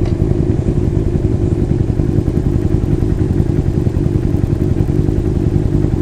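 Motorcycle engine running at a steady pace while riding, a dense, even low-pitched sound with no revving up or down.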